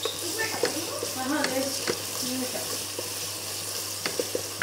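Onions, green chillies and ginger-garlic paste sizzling in hot oil in a pressure-cooker pot, with a steady hiss and scattered clicks and scrapes of a spatula stirring against the pot.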